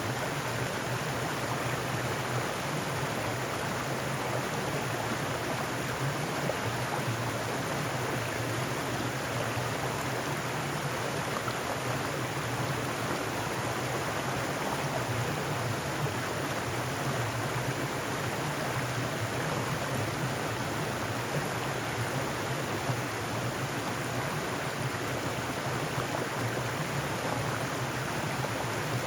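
Mountain stream flowing over rocks: a steady rush of water with no pauses or changes.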